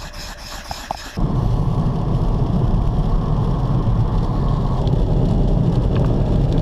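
Steady low rumble of a vehicle driving on the road, starting abruptly about a second in after a quieter moment.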